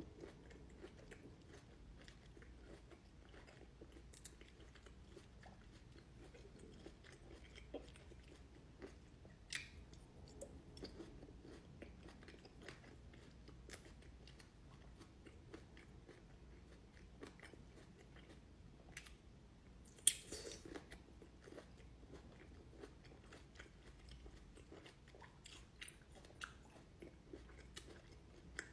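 Close-miked chewing and biting of Shine Muscat grapes: soft, faint mouth sounds with many small wet clicks. One louder sharp bite comes about twenty seconds in.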